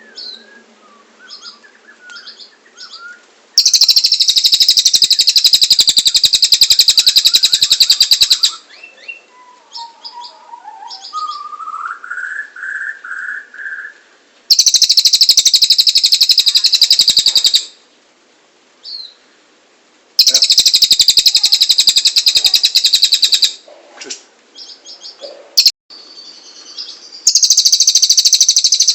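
Cililin bird singing: loud bursts of very rapid, high-pitched trilling, each lasting three to five seconds, repeated four times. Between them come softer scattered chirps and, about halfway through, a short lower warbling phrase.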